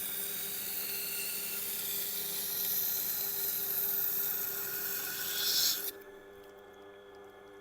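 Steel knife blade ground against the turning wheel of a Tormek T8 sharpener: a steady high grinding hiss as the edge is worked to raise a burr. About six seconds in the blade is lifted off and the hiss cuts off suddenly, leaving the machine's motor humming.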